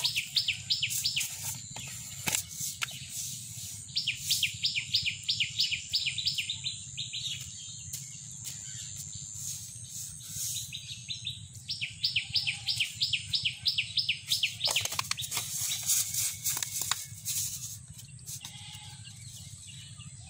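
A bird calling in runs of rapid, evenly spaced high chirps, each run lasting two to three seconds, heard about four times over a steady low hum. A few short knocks come in the second half.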